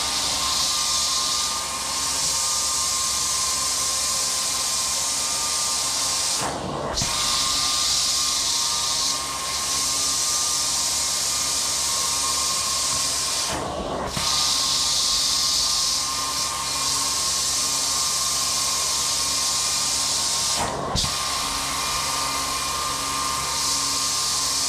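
Hot-water extraction cleaning wand (a six-jet tool) spraying hot water and steam into a synthetic rug while its vacuum pulls it back up: a steady hiss over a constant machine hum. The hiss breaks off briefly three times, about seven seconds apart, as each slow stroke ends.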